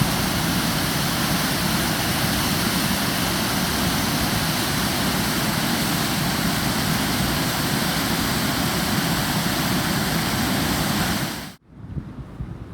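Water rushing steadily over a small waterfall at a pond, a loud even roar of falling water that cuts off suddenly near the end.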